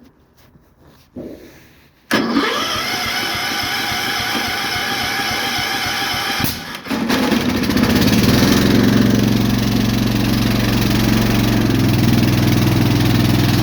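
Cold start of a 1974 Cub Cadet 1650's Kohler single-cylinder engine. The starter cranks it for about four seconds, then about seven seconds in the engine catches and settles into a steady run.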